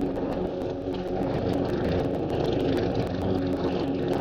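Petrol walk-behind lawn mower engine running steadily under load while mowing grass, with a rapid run of faint ticks over it.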